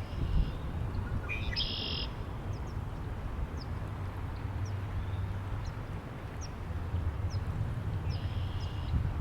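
Low wind noise on the microphone with small birds calling. Thin high chip notes come about once a second, and a short buzzy, trilled call sounds about two seconds in and again near the end.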